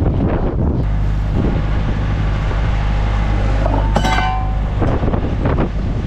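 Wind rushing over the microphone aboard a sailboat underway in strong wind and rough seas, over a low steady drone. A single sharp metallic clink rings out about four seconds in.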